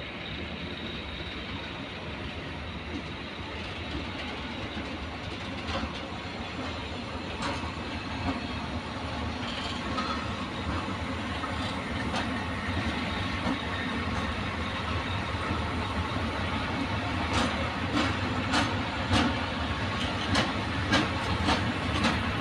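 A train running through a station, growing gradually louder, with its wheels clicking over rail joints and points. The clicks come thick and fast in the last few seconds.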